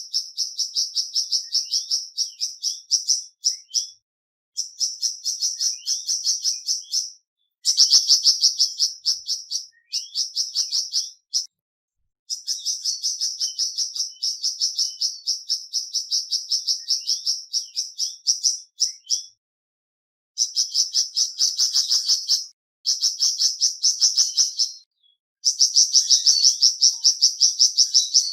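Flamboyan bird song: long bouts of rapid, high, evenly repeated chirping notes, several a second, broken every few seconds by short pauses.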